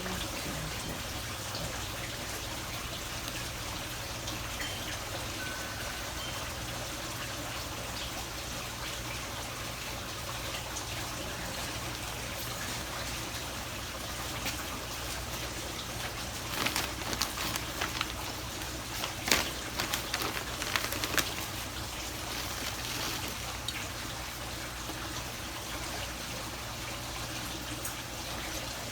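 Steady trickle of running water. About two-thirds of the way through comes a cluster of sharp clicks and knocks.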